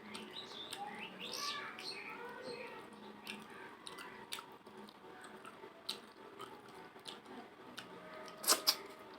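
Close-up eating sounds of someone eating rice and curry: wet mouth clicks and smacks throughout, with two sharper clicks near the end. High chirping sounds are heard over the first few seconds.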